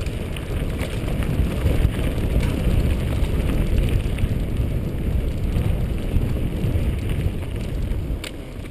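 Mountain bike riding on a dirt trail: wind rushing over the microphone, with tyre noise and scattered clicks and rattles from the bike.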